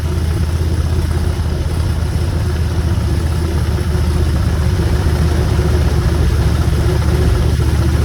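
Motorcycle engine running steadily in second gear while riding, getting slightly louder about halfway through.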